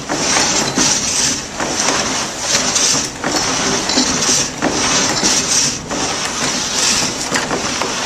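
Rushing, splashing water, a continuous hiss that swells and dips unevenly.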